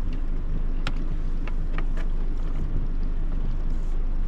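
Steady wind rumble on the microphone over water around a small boat, with a few short, light clicks or knocks in the first couple of seconds.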